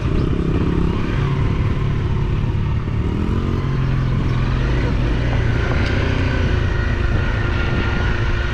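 Off-road motorcycle engine running, its pitch rising and falling as the throttle is worked.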